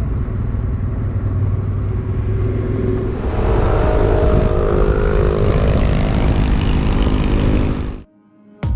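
Motorcycle engine and wind noise while riding, getting louder and higher in pitch about three seconds in. It cuts off abruptly near the end.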